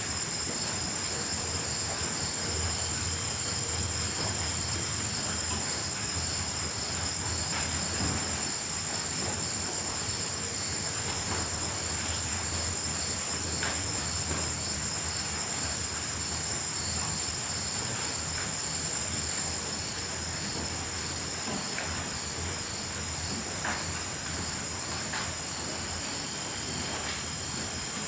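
Night chorus of crickets and other singing insects: a continuous, high-pitched trill with a steady pulsing chirp beneath it.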